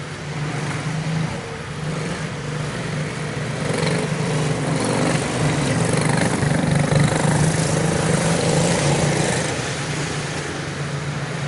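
Quarter midget race cars with Briggs & Stratton Animal single-cylinder engines running on the track. Their drone grows louder from about four seconds in and eases back near the end.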